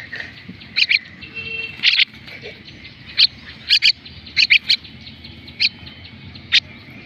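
Common myna (shalik) chick giving short, sharp chirping calls, about a dozen spread unevenly, some in quick pairs.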